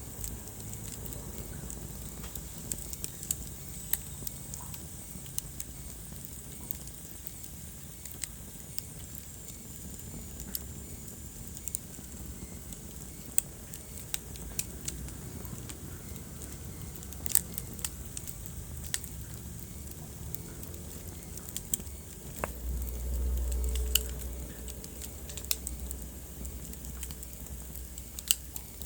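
Wood fire burning in a fireplace: irregular sharp crackles and pops over the low, steady rush of the flames, with a brief swell of low rumble about three-quarters of the way through.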